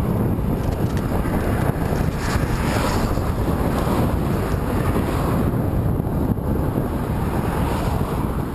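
Steady, heavy wind noise buffeting the microphone while moving into a headwind, with a brief stronger gust about two to three seconds in.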